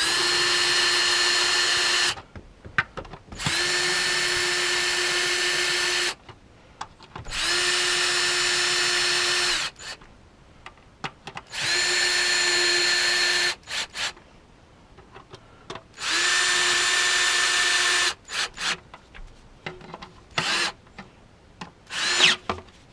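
Power drill/driver tightening the intake manifold fasteners: five runs of about two seconds each at a steady pitch, with short pauses and small clicks between them.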